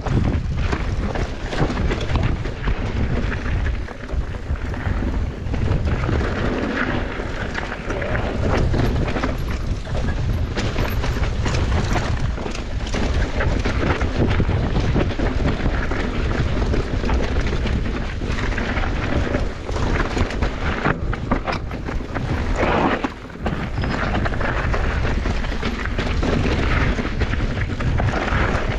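Mountain bike running down a bike-park trail, heard from a camera on the rider. Wind buffets the microphone while the bike rattles and knocks constantly over rough ground, with a short lull about three-quarters through.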